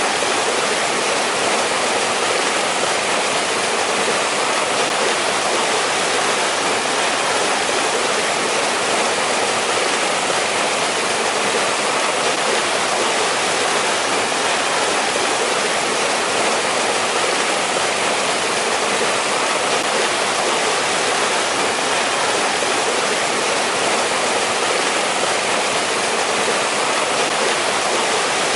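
Valley stream in winter rushing steadily over rocks, a continuous hiss of flowing water with no breaks or changes.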